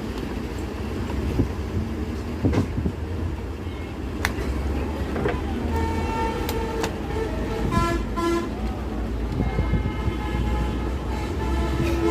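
Road traffic rumbling steadily, with vehicle horns honking twice in the second half, and a few sharp clicks of handling mixed in.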